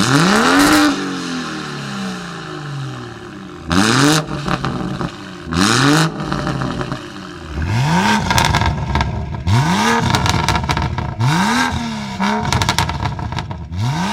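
Car engine revved hard about six times in a row: each rev rises quickly and drops back, with a harsh rasp from the exhaust. The revs come closer together and rougher in the second half.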